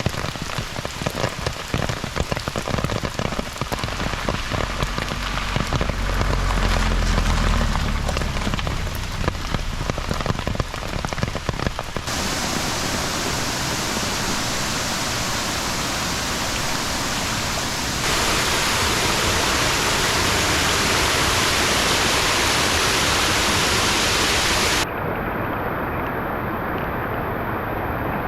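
Heavy monsoon-season rain pouring down, a steady dense hiss that changes abruptly in tone and loudness a few times as it cuts between shots. A low rumble sits under the rain for a few seconds early in the first shot.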